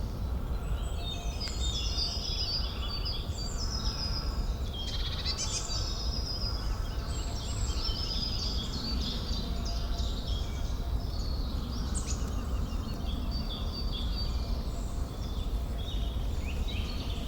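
Forest ambience: several birds singing and chirping over one another in many short calls and trills, over steady low background noise.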